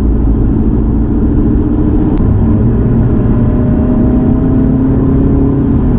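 2019 Alfa Romeo Giulia Veloce's 2.0-litre turbocharged four-cylinder petrol engine pulling under acceleration during an overtake, heard inside the cabin over steady road and tyre rumble. A sharp click comes about two seconds in, after which the engine note drops and then climbs steadily.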